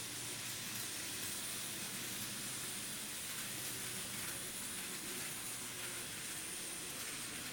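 TOMIX N-scale 207 series model train running along the layout track: a steady hiss of wheels and motor with a thin, high, even whine.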